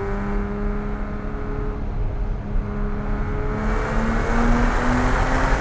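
Porsche 987.1 Cayman S's 3.4-litre flat-six running at steady revs, then rising in pitch from about three and a half seconds in as the car accelerates. Tyre and road noise grows louder as it speeds up.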